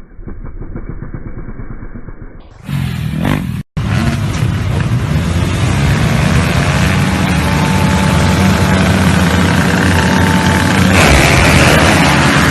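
Motocross bike engines running hard in a race, a dense, steady engine noise. It cuts out abruptly for a moment about four seconds in, then comes back louder.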